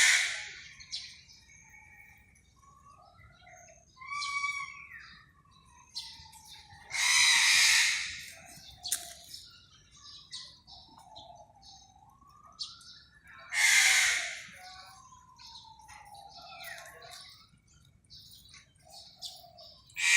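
Peafowl calling: loud, harsh calls about 1.5 seconds long, repeated roughly every six to seven seconds, with faint chirps and gliding whistled calls of birds in between.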